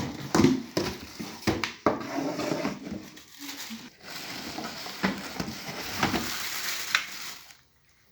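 Vacuum cleaner packaging being handled during unboxing: rustling and crackling of the wrapping with irregular knocks and clicks of parts and box, a longer stretch of steady rustling from about four seconds in that stops shortly before the end.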